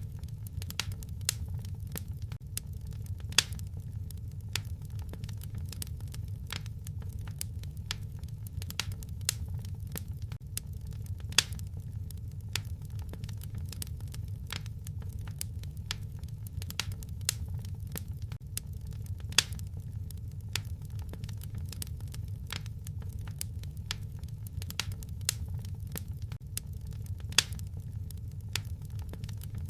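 Wood fire crackling in a fireplace: a dense scatter of sharp pops and snaps over a steady low rumble, with a louder pop about every eight seconds.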